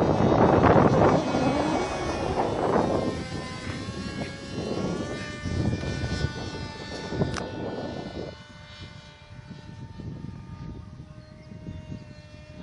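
Propeller motor of a handmade model MQ-9 aircraft droning in flight, its pitch drifting slightly as it moves away and fades. Gusty wind buffets the microphone for the first few seconds.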